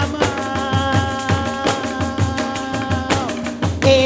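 Live Brazilian music: a group of pandeiros (frame drums) playing a steady rhythm while a voice holds one long note that slides down and breaks off about three seconds in.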